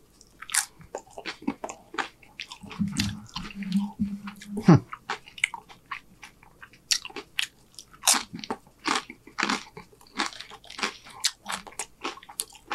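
Crisp tortilla chips crunching as a man bites and chews loaded nachos close to the microphone, in many sharp irregular crunches. A low steady tone sits under the chewing for about two seconds partway through.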